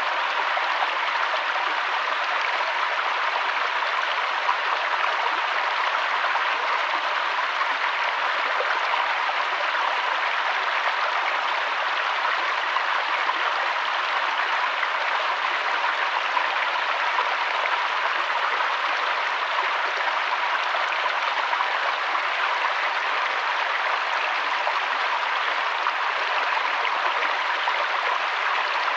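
Water flowing steadily in a river or stream, an even rushing sound with no change.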